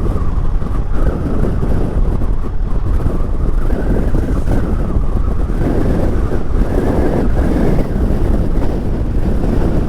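Steady wind roar buffeting the microphone of a motorcycle riding down a mountain road, with the bike running underneath it.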